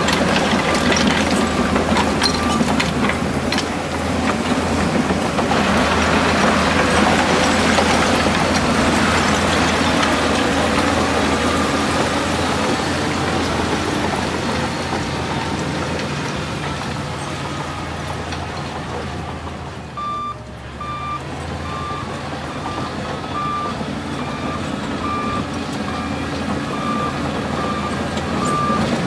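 Heavy diesel engine of a bulldozer running under load, with a reversing alarm beeping about once a second at the start and again from about two-thirds of the way through.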